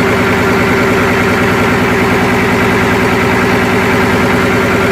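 Yanmar marine diesel engine machinery running steadily. It makes a loud, even sound with a fast, regular firing beat underneath.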